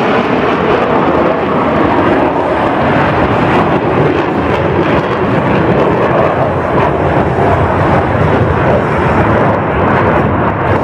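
Blue Angels F/A-18 Hornet jet engine noise, loud and steady, with no clear rise or fall.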